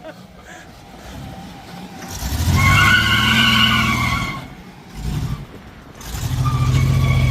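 Pickup truck engine revving hard with tires squealing for about two seconds, starting about two seconds in. It drops back, then the engine revs high and steady again near the end.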